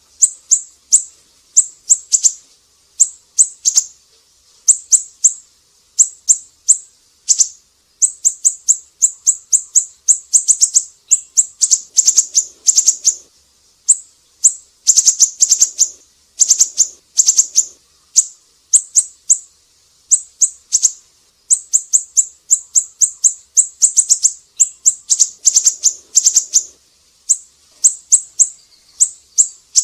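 Siri-siri bird calling: rapid clusters of short, sharp, high-pitched chirps, two to six notes at a time with brief pauses between clusters.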